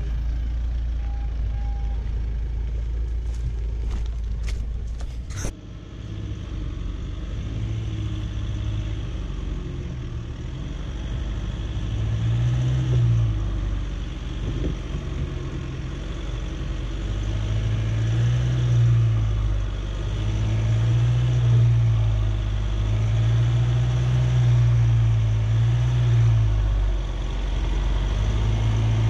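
A 4x4's engine running under load, its revs rising and falling again and again as it works through an obstacle, with a few sharp knocks a few seconds in.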